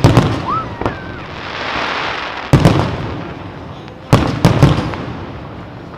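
Aerial fireworks shells bursting in loud bangs: one at the start, then a cluster of bangs about two and a half seconds in and another about four seconds in. Between them is a short rising whistle and a swelling hiss.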